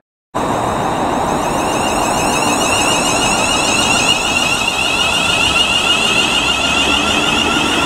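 Class 350 Desiro electric multiple unit passing close by: a steady rumble of wheels on rail with a high whine running over it, starting after a brief moment of silence.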